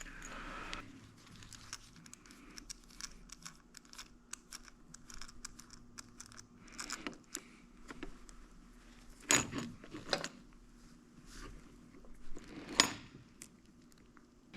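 Small metal parts and hand tools being handled: light clicks, rattles and jangles, with two sharper knocks about nine and thirteen seconds in, over a faint steady hum.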